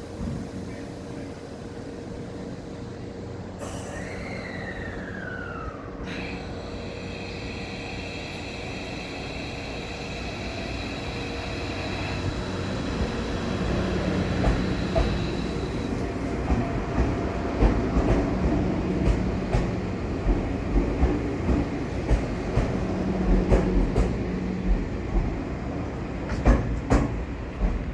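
Tobu 500 series electric train pulling away: a steady high motor whine, then from about halfway wheels clacking over rail joints in a quickening run of sharp knocks, with some wheel squeal, growing louder as it passes.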